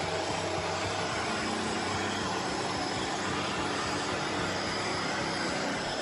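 Bagotte BG800 robot vacuum cleaner running: a steady whirr from its suction motor and brushes, with a constant hum and no change in level.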